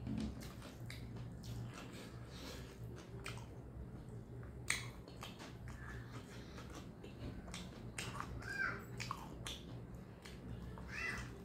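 Close-up mouth sounds of a person eating rice and fried egg by hand: wet chewing, smacking and small clicks throughout, with one sharper click about halfway through.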